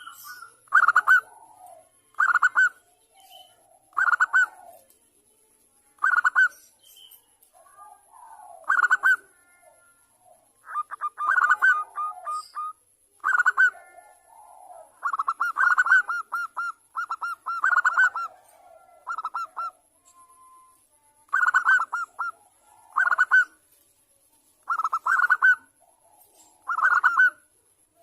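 Zebra dove (perkutut) cooing: short, rapid trilled coo phrases repeating every one and a half to two seconds, a few drawn out into longer trills, with softer low coos between them. A faint steady high-pitched tone runs underneath.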